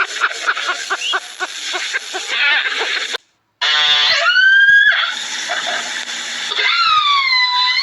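A quick run of short animal calls, then high-pitched kitten meows: one rising meow about four seconds in and a longer one near the end that dips and rises again.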